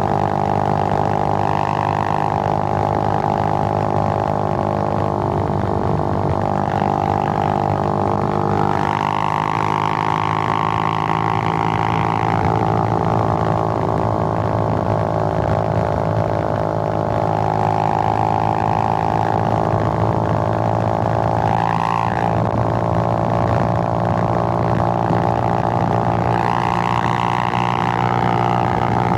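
Suzuki GN125's single-cylinder four-stroke engine running steadily on the move, its note rising as it accelerates at about nine seconds and again near the end, easing off in between.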